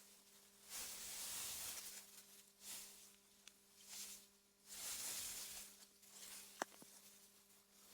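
Faint wind rustling through meadow grass, in soft gusts that swell and fade every second or two, over a low steady hum. A single sharp click comes near the end.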